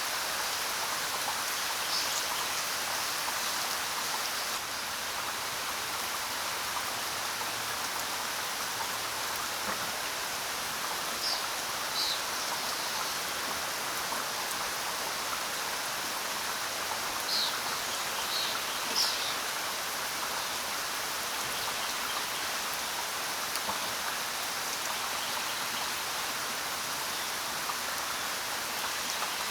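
Steady rainfall hissing evenly, with a few short, high bird chirps: one about two seconds in, a pair around eleven to twelve seconds, and a small cluster around seventeen to nineteen seconds.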